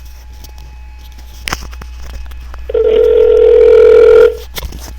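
Telephone ringback tone: one loud, steady ring of about a second and a half as an outgoing call rings through, heard over the phone line, with a sharp click shortly before it.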